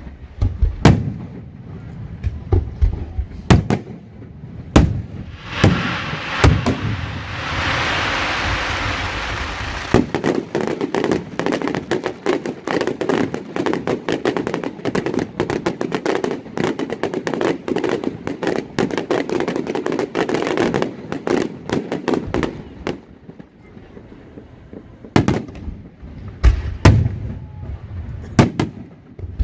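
A fireworks display going off: sharp booms, then a hissing rush about five seconds in. A long stretch of dense, rapid crackling follows, and scattered booms return near the end.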